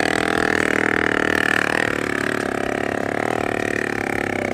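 Small petrol engine of a homemade car built from scrapyard parts, running steadily with a slightly wavering pitch.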